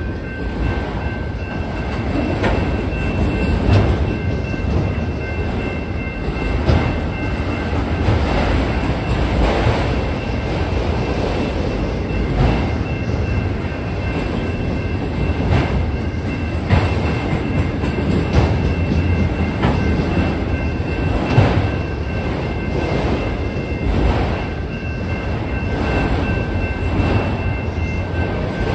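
Norfolk Southern freight train's autorack cars rolling past a grade crossing: a steady running noise from wheels on rail, with repeated knocks and clacks as wheels cross rail joints. A faint, steady high-pitched tone sounds underneath.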